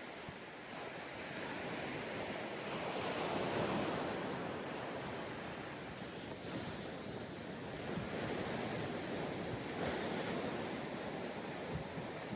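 Sea waves breaking on a sandy beach, the surf swelling and easing in slow surges, with some wind on the microphone.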